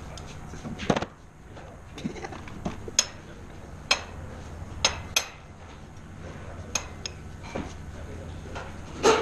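Scattered sharp clicks and knocks, roughly one every second, over a low steady hum, with faint voices.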